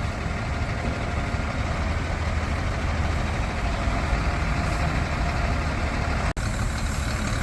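Diesel engine of a Sinotruk HOWO 8x4 water truck running steadily at idle, with a brief break a little after six seconds.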